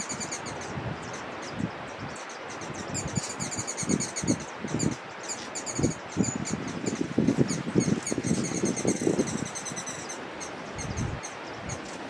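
Birds chirping in fast runs of short, high-pitched notes, over bursts of low rustling noise.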